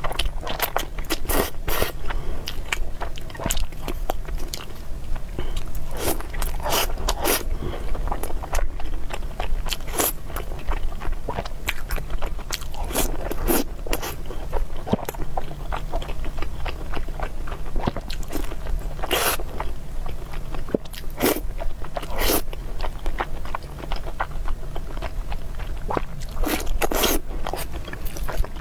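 A person eating close to the microphone, with irregular chewing and biting sounds and scattered sharp clicks over a steady low hum.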